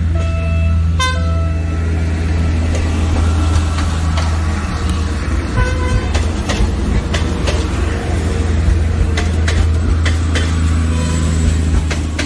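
Train sound: a low, steady diesel engine rumble. Short horn toots come near the start and again briefly about six seconds in, with scattered clicks and rattles later on.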